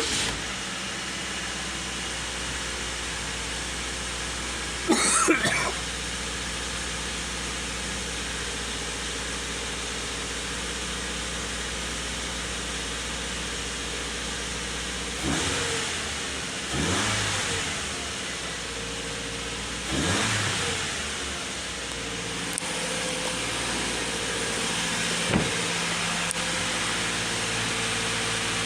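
Subaru XV flat-four boxer engine idling steadily, blipped three times just past the middle, each rev rising and falling back to idle. There is a short loud burst about five seconds in and a sharp click near the end.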